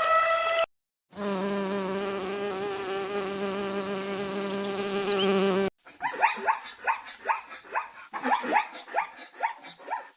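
A flying insect buzzing steadily, its pitch wavering slightly, for about four and a half seconds before it cuts off abruptly; a different animal call follows, a quick series of short calls that each fall in pitch, about two to three a second.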